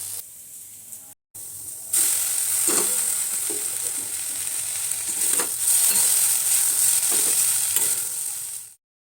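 Food frying in a little oil in a pan, sizzling loudly from about two seconds in, while it is stirred with irregular scraping strokes of a spoon or spatula against the pan.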